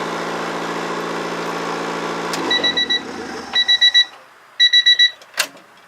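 Turbocharged Honda D16Y8 four-cylinder engine idling steadily, then shut off about two and a half seconds in. An electronic warning chime follows in three quick runs of beeps, then a single click.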